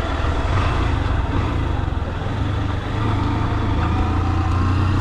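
Motorcycle engine running steadily while riding, with wind and road noise; the engine note gets slightly louder about three seconds in.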